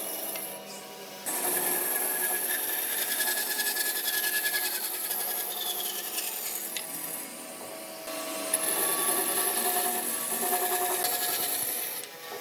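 Tools working on wood with a scraping, rubbing sound. The sound changes abruptly about a second in and again past the middle, as between separate shots of the work.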